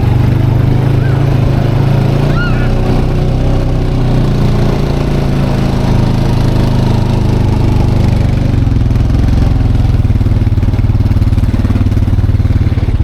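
Four-wheeler (quad ATV) engine running at a steady speed.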